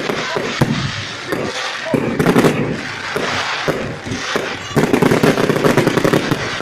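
Fireworks going off: a run of bangs and fast crackling that grows louder and denser about five seconds in.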